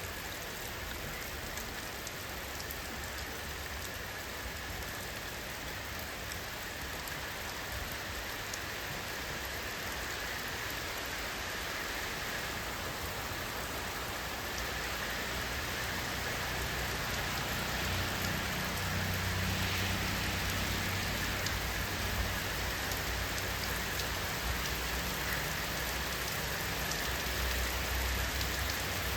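Steady rainfall: an even wash of drops with fine individual drop ticks, growing a little louder in the second half, where a low rumble builds underneath.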